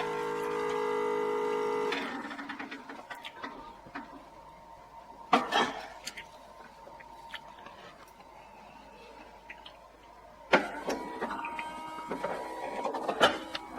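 A held musical chord stops abruptly about two seconds in. It is followed by scattered clicks and knocks of something being handled, with three loud sharp knocks, the last ones close together near the end.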